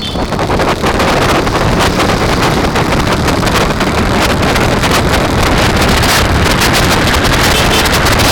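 Loud wind noise buffeting the microphone of a moving bicycle, rising over the first second and then holding steady.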